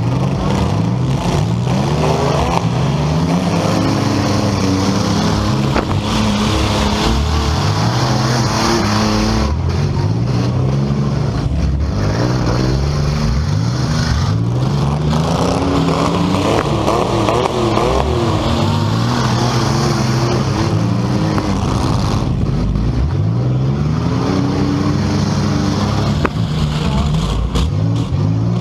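Several compact-car engines revving hard, their pitch climbing and dropping over and over, several at once and overlapping, in a demolition derby heat.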